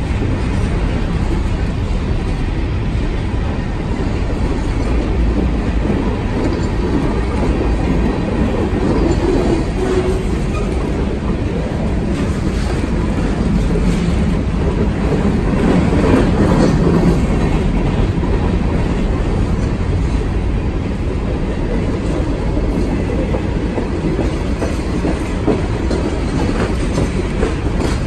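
Freight train of covered grain hopper cars rolling past, with the steady running noise of steel wheels on the rails. It swells a little about halfway through.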